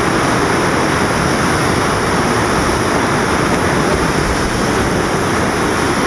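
River in flood, its floodwater rushing in a loud, steady wash of noise.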